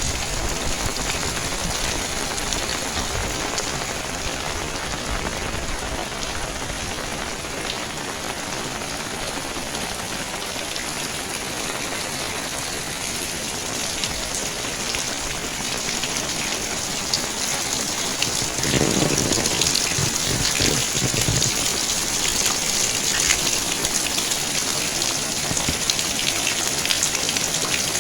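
Steady rain falling and pattering on surfaces, a dense hiss of many small drops. About two-thirds of the way in, a lower rumble swells for a couple of seconds, and the rain stays a little louder after it.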